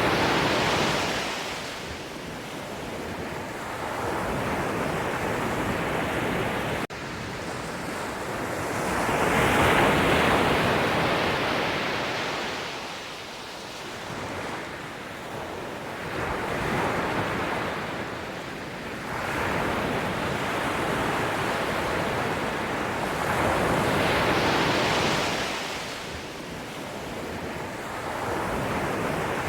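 Ocean waves breaking and washing up, the surf swelling and falling away every several seconds, with a brief dropout about seven seconds in.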